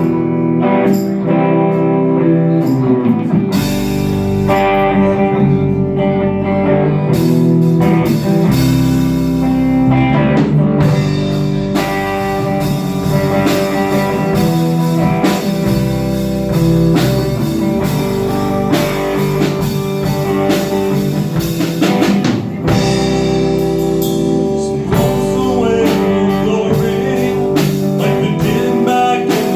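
Live rock band playing: electric guitar alone at first, with drums and bass coming in about three and a half seconds in. Near the end the drums drop out for a couple of seconds before the full band comes back.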